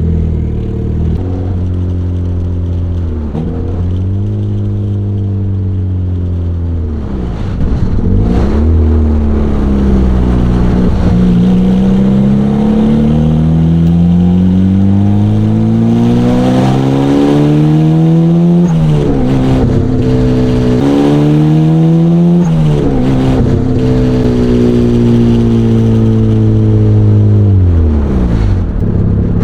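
Turbocharged Mazda Miata four-cylinder engine pulling hard through the gears. The pitch climbs steadily and drops sharply at each of several shifts in the middle, then falls away near the end as the car slows.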